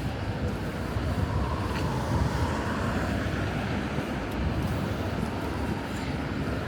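Steady road traffic: vehicles running past on a city street, a continuous low rumble with tyre noise.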